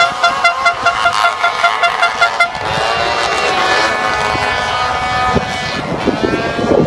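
A horn tooting in short quick blasts, about four a second, for the first two and a half seconds. Then a dense mix of held and rising horn and engine tones with no break.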